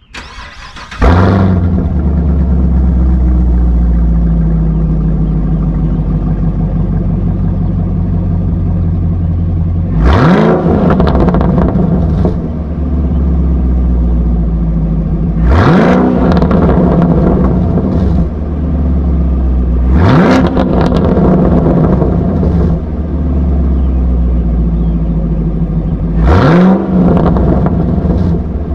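Chevrolet Camaro SS's 6.2-litre LT1 V8, with an aftermarket axle-back exhaust, both catalytic converters and stock manifolds, starts about a second in and settles into a loud idle. It is then revved four times, each rev rising sharply and falling back to idle.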